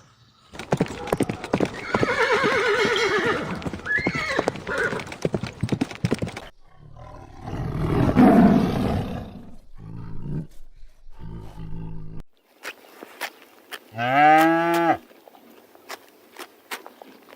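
Farm animals calling in a string of separate clips with abrupt cuts between them. The loudest is a single arched call of about a second near the end.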